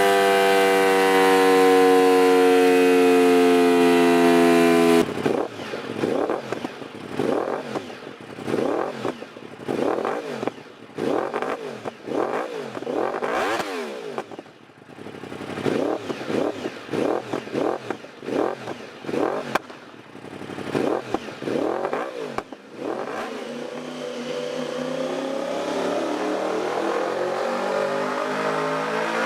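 Exhaust of a Yamaha YZF-R1M's crossplane inline-four: a steady high engine note slowly falling in pitch, cut off abruptly about five seconds in. Then comes a long run of quick throttle blips with revs rising and falling, and near the end a steadily rising note as the engine pulls up through the revs.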